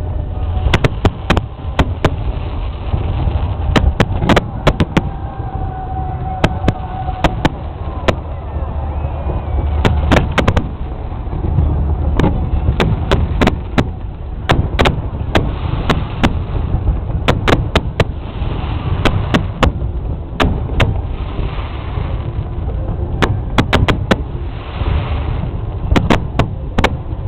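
Aerial fireworks going off in quick succession: many sharp bangs, some followed by crackling, over a steady low rumble.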